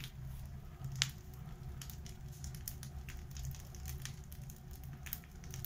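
Wood fire burning in a masonry fireplace on its first firing: a steady low hum of the flame drawn hard up the flue, with scattered sharp crackles of burning wood and one louder snap about a second in. The hum is the sign of a strong draft.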